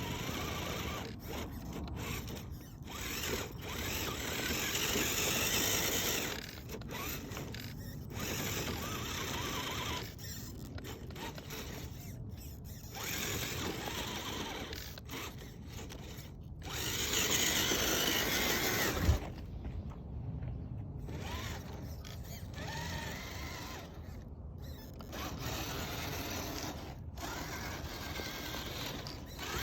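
Axial SCX10 III RC crawler driving, its electric motor and gears whining in stretches of a few seconds that swell and drop as the throttle is worked. There is a sharp knock about 19 seconds in.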